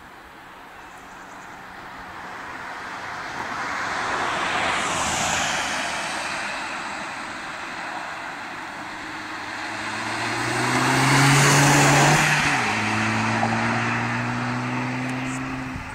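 Volkswagen Golf V GTI driving past, its turbocharged four-cylinder engine note rising under acceleration. Its loudest point comes about eleven seconds in, and a gear change comes about thirteen seconds in as it pulls away. An earlier swell of tyre and wind rush peaks about five seconds in.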